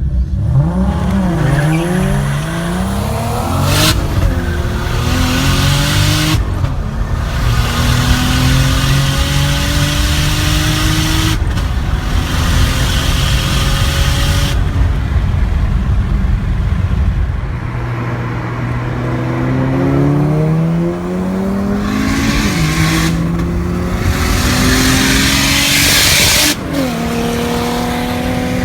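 Toyota Supra Mk3's 7M-GTE straight-six with a big Greddy T78-33D turbo, running about 17 psi of boost, accelerating hard through the gears. The revs climb and drop back at each gear change, several times over.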